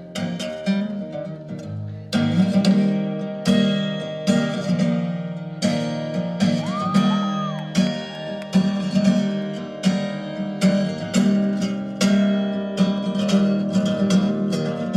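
Instrumental break in a song, led by acoustic guitar: picked and strummed chords in a steady rhythm, with stronger strokes setting in about two seconds in.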